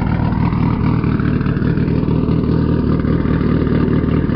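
2024 Lexus IS500's 5.0-litre V8 idling steadily through its stock catback exhaust, which the owner finds very quiet.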